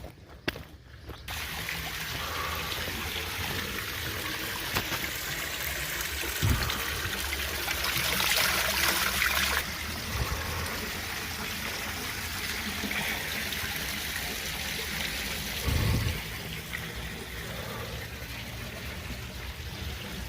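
Running water trickling steadily, growing louder for a couple of seconds about halfway through, with a couple of soft low thumps.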